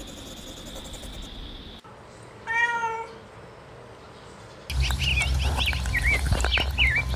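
A cat-like meow, one wavering call lasting about half a second, comes roughly two and a half seconds in. After a cut, a run of quick, high, squeaky calls that rise and fall plays over a low rumble.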